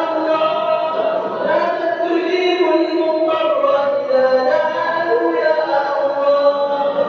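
A man's voice reciting the Quran in melodic tajwid style, drawing out long held notes that rise and fall slowly with brief breaths between phrases.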